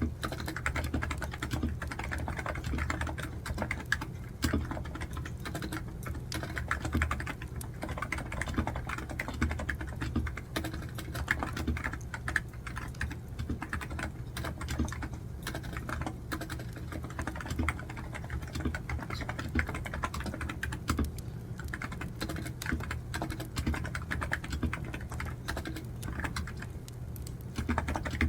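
Computer keyboard being typed on steadily, a continuous run of irregular key clicks.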